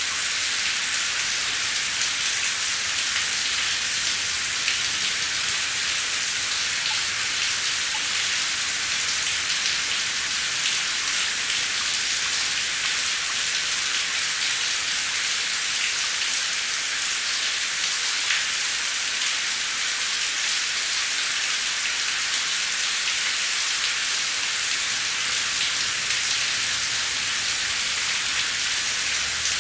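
Heavy rain falling steadily: an even hiss of rain with fine scattered drop ticks.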